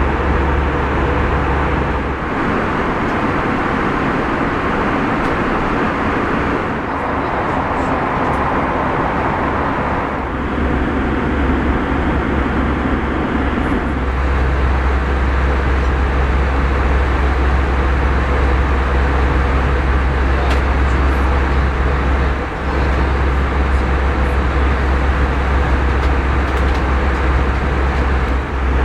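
Steady cabin noise of an Airbus A320 airliner: engine and airflow rumble. The deep part of the rumble eases a couple of seconds in and comes back about halfway through.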